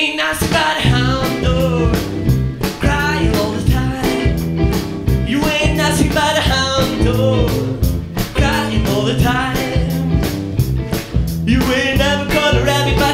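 Rock and roll band music with a steady drum and bass groove and a wavering lead line over it.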